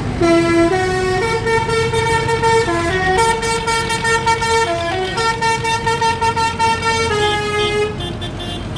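A musical vehicle horn playing a tune: a string of held notes stepping up and down in pitch for about eight seconds, then stopping. Engines rumble steadily underneath.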